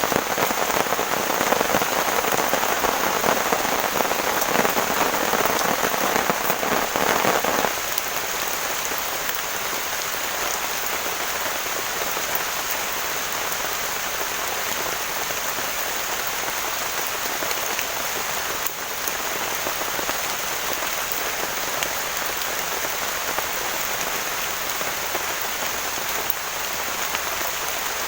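Heavy rain pouring steadily, a dense hiss of drops. About eight seconds in the fuller, louder part of the sound drops away abruptly, leaving a lighter, even hiss of rain.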